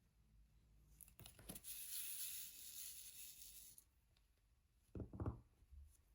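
Protective film being peeled back from an adhesive diamond painting canvas: a few light clicks, then about two seconds of a dry tearing hiss, followed by two soft knocks near the end.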